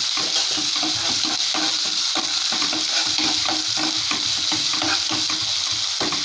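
Ginger-garlic paste and curry leaves sizzling in hot oil in a non-stick kadai, with a steady sizzle and a spatula stirring and scraping through it in quick, uneven strokes. This is the sauté of the paste for a chicken gravy's masala base, cooking off its raw smell.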